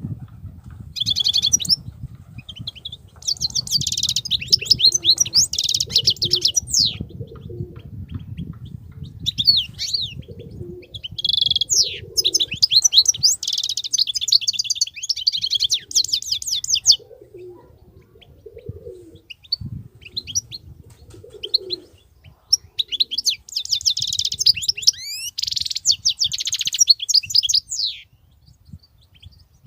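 European goldfinch singing: long phrases of rapid, high twittering notes and trills, broken by short pauses.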